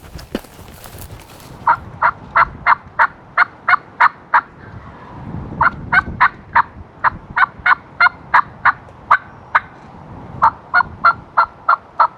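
Turkey yelping: three runs of short, evenly spaced notes, about three a second, with brief pauses between the runs. Wind rumbles underneath.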